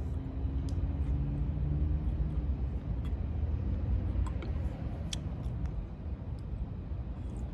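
Steady low rumble, like a vehicle's engine heard from inside, with a few faint clicks scattered through it.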